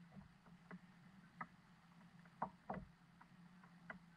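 Faint sounds aboard a small boat on the water: a few scattered light knocks and clicks, about six, over a low steady hum.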